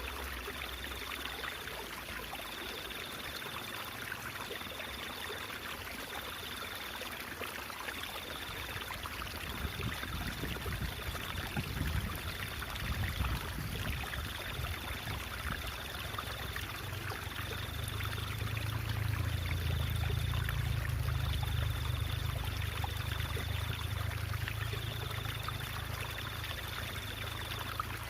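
Stream water babbling and trickling steadily. A faint high tone pulses about every two seconds, and a low rumble swells from about a third of the way in.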